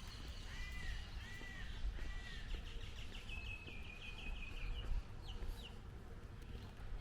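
Songbirds calling: three arching chirps in the first two seconds, then a fast trill of repeated high notes and two short sharp notes, over a steady low background rumble.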